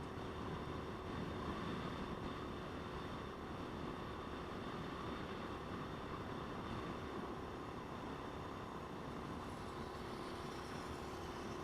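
Motorcycle engine running steadily, with road and wind noise mixed in.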